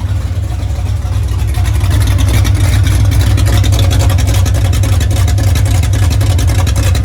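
1981 Dodge D150 pickup's V8 running loud with a rapid exhaust pulse, building up about a second and a half in and then holding steady.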